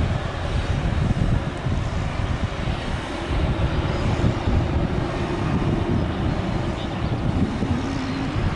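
Jet airliner engines running as a plane passes, a steady tone that rises slightly near the end, under heavy wind buffeting the microphone.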